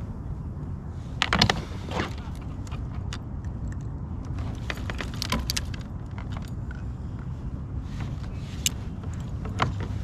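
Scattered metallic clicks and jingling rattles of fishing gear being handled on a kayak, in short clusters over a steady low rumble.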